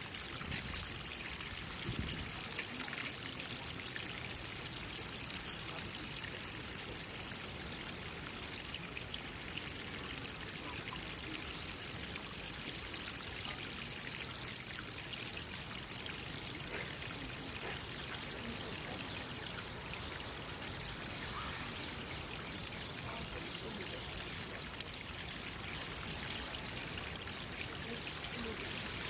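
Water trickling and flowing steadily into a pond, an even, unbroken rush.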